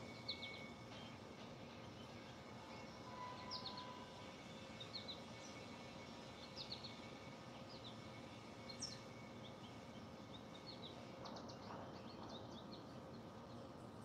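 Faint, scattered bird chirps, short high notes in small clusters every second or two, over a steady low background hiss.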